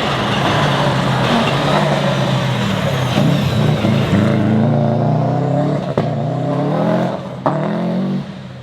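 Rally car engine at full throttle, revving up in rising sweeps through quick gear changes as it passes and pulls away, fading near the end. Two sharp cracks come about six seconds in and again about a second and a half later.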